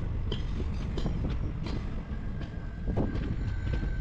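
Passenger train noise: a steady low rumble with scattered clicks and knocks, and a faint high whine that comes in about two seconds in.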